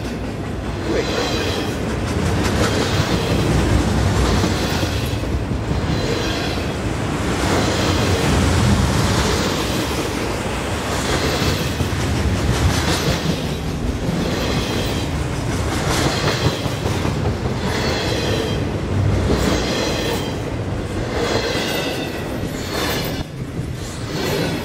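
Canadian Pacific double-stack intermodal freight cars rolling past, their steel wheels running steadily on the rails with a clickety-clack that recurs about every one and a half seconds as the trucks pass.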